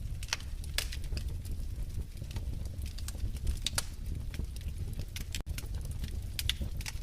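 Wood fire crackling in a fireplace: irregular sharp pops and snaps over a steady low rumble of the flames, with a split-second dropout about five seconds in.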